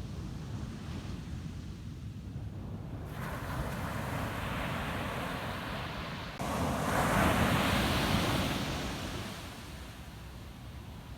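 Ocean waves breaking on a sandy beach. Surf builds from about three seconds in, surges suddenly a little past six seconds, is loudest around seven to eight seconds, then washes out and fades.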